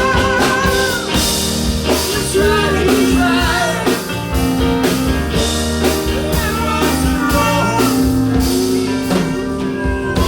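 A live rock band playing an instrumental passage: drums keep a steady beat under bass, with a wavering, bending lead melody on top.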